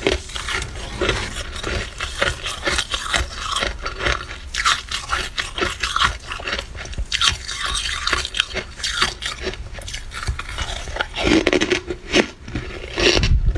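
Flaky freezer frost crunching and scraping: a dense run of quick, crisp crunches, with a few louder ones near the end.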